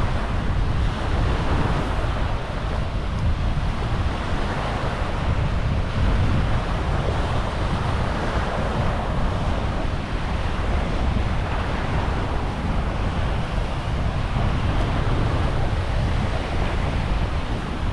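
Wind buffeting the microphone with a steady low rumble, over the wash of small waves on the beach.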